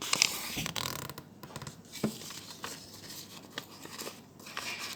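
Rustling and scraping handling sounds, loudest in the first second, with a few sharp clicks scattered through.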